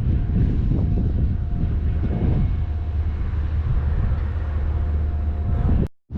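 Steady low mechanical rumble with a faint, steady hum above it, mixed with wind buffeting the microphone; it cuts off suddenly near the end.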